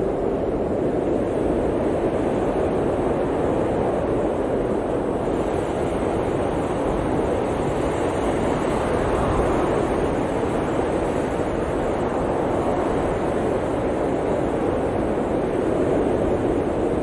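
Blizzard wind blowing steadily as a deep, even rush with slow, gentle swells.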